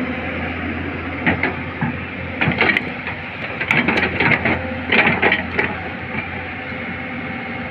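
Excavator engine running steadily under a series of sharp metal clanks from the steel track chain being worked onto the machine. The clanks come in an irregular string through the middle of the stretch, then stop, leaving only the engine.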